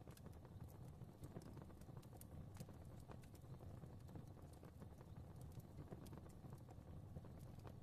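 Wood fire crackling faintly: scattered, irregular pops and snaps over a low, steady rumble of flames.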